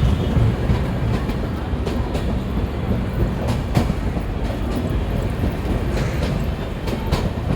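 Double-decker passenger train running, a steady low rumble with a few irregular sharp clicks of the wheels over rail joints.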